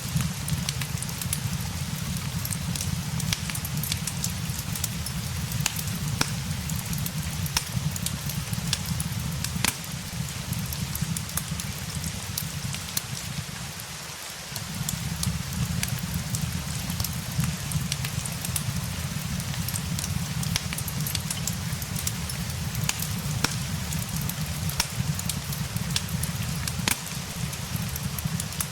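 Steady rain mixed with the frequent sharp crackles and pops of a wood fire, over a deep low rumble. The rumble drops away for a moment about halfway through, then returns.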